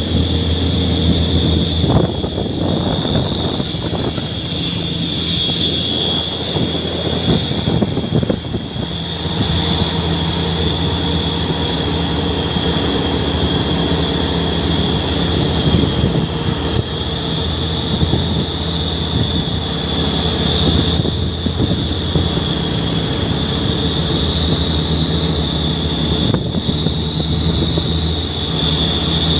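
Truck engine running steadily under way, with a steady high whine above it. Irregular knocks and rattles come through in the first several seconds.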